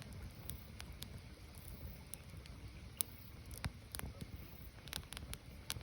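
Firewood burning, crackling with irregular sharp pops over a low steady rumble of the fire.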